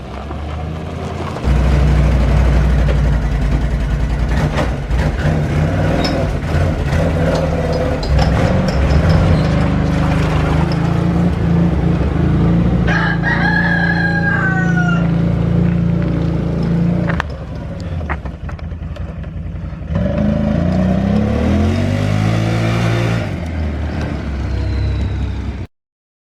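A vehicle engine running steadily, with a rooster crowing once about halfway through. Near the end the engine revs up, then the sound cuts off abruptly.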